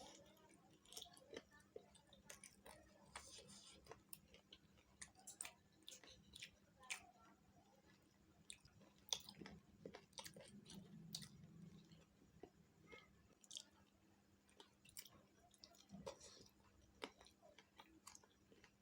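Close-up eating sounds of chicken feet in curry being chewed: irregular, faint wet smacks and small clicks. A faint steady hum lies underneath.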